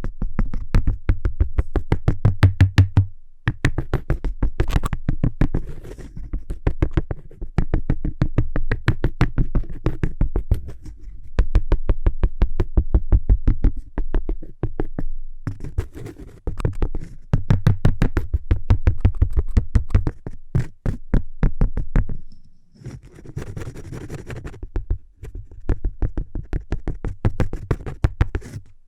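Fingernails tapping rapidly on cork, about ten close, crisp taps a second, in runs broken by short pauses, with a stretch of scratching on the cork about two-thirds of the way through.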